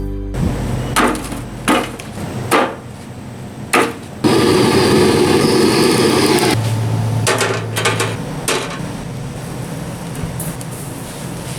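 Wood being chopped: four sharp knocks of a blade into wood, spaced about a second apart. About four seconds in, a loud rushing noise starts, then settles into a steadier, quieter hiss.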